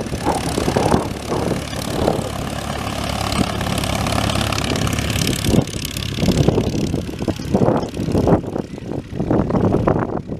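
A propeller-driven light aircraft's engine running: a steady low drone under a broad rushing noise that rises and falls irregularly in level.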